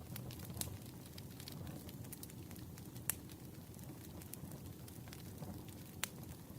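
Campfire crackling: a steady low rustle of burning with scattered sharp pops, the loudest about three seconds in and another just after six seconds.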